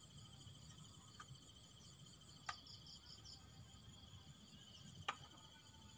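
Insects trilling steadily in fast, even pulses. A very high trill stops about halfway through while a lower one carries on, with a few faint clicks.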